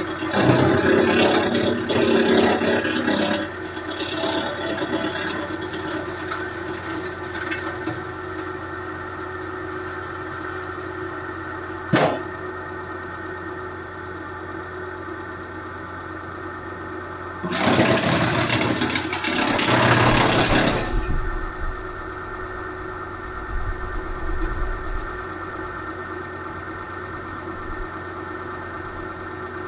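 Hydraulic wood chipper's engine running steadily, with two spells of louder, rougher noise, one near the start and one about two-thirds of the way through, and a single sharp knock near the middle.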